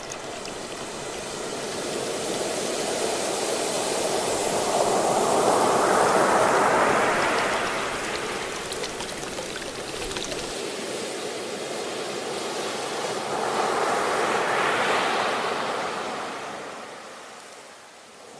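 Ocean waves surging in and washing up the shore, two big swells of surf noise, the first peaking about a third of the way in and the second near the end before it ebbs.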